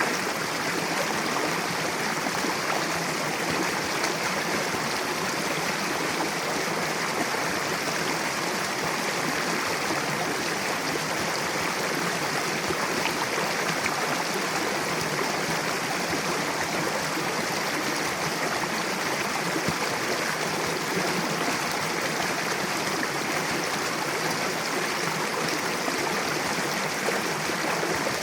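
Mountain river rushing steadily over rocks, a continuous, even wash of water noise.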